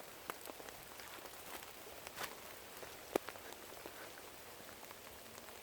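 Steady rain falling, with scattered ticks of drops and one sharper tick about three seconds in.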